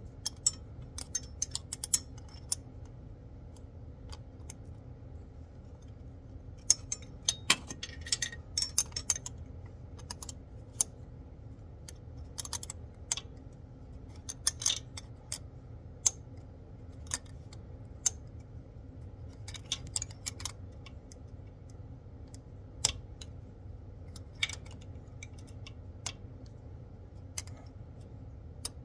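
Hand tool turning the nut of a rubber expansion freeze plug in a truck engine block: scattered, irregular sharp metallic clicks and clinks as the nut is tightened to expand the rubber seal, over a steady low hum.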